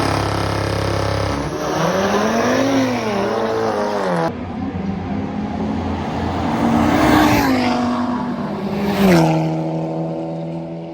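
Drag race cars accelerating hard down the strip, engines revving high with the pitch rising and dropping at each gear change. Near the end the engine note falls and settles to a steady lower tone as the cars come off the throttle.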